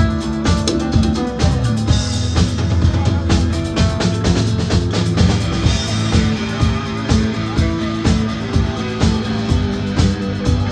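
Live rock band playing an instrumental passage: a drum kit keeps a steady beat under electric guitar and sustained chords, with no singing.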